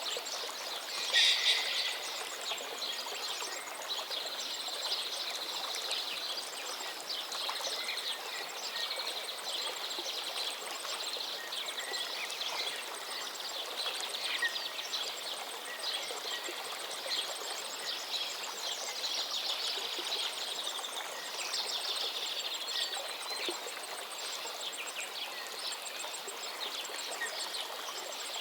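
Steady rush of a flowing stream with songbirds chirping and trilling over it, a louder burst of birdsong about a second in.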